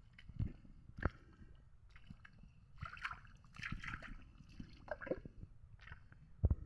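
Water sloshing and squelching, with scattered knocks and a sharper thump near the end.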